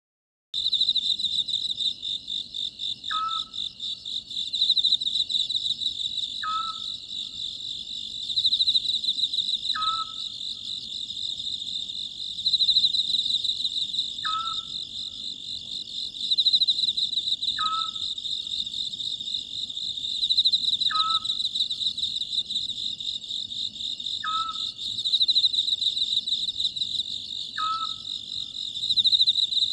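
Oriental scops owl calling a short two-part note, repeated about every three and a half seconds, over the steady high-pitched chirring of crickets.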